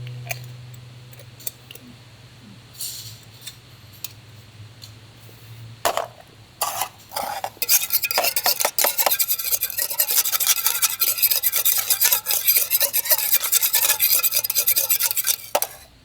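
Metal utensils scraping and clinking against cookware, a few scattered clicks at first, then rapid continuous scraping from about halfway through that stops just before the end.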